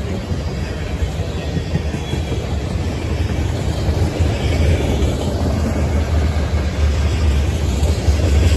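Freight cars of a BNSF manifest train, covered hoppers and tank cars, rolling past on the rails: a steady low rumble of wheels on track that grows a little louder near the end.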